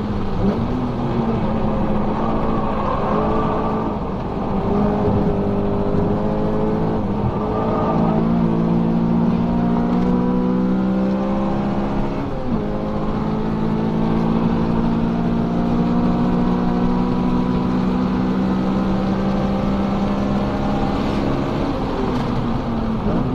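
Honda Civic FA5's 2.0-litre four-cylinder i-VTEC engine running hard on track, heard from inside the cabin. Its pitch climbs steadily under throttle for several seconds at a time and drops back sharply four or five times.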